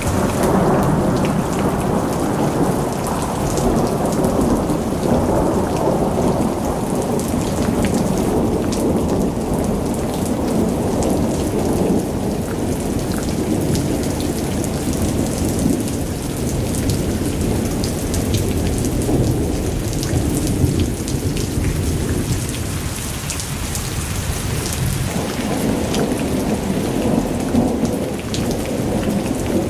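Rain falling steadily, with many small drop ticks over a deep, shifting rumble that swells and eases through the passage.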